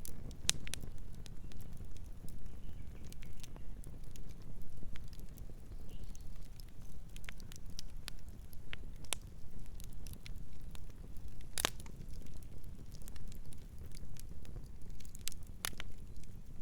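Campfire crackling: burning wood giving off irregular sharp snaps and pops over a low steady rumble, with one louder pop near the end.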